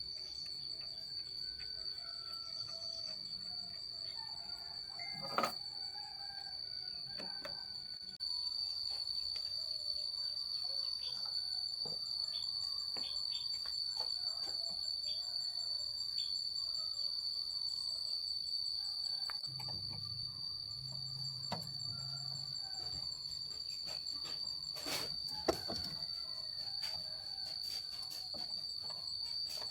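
Insects chirring in one steady high-pitched drone, with a few sharp knocks, one about five seconds in and two more near twenty-five seconds.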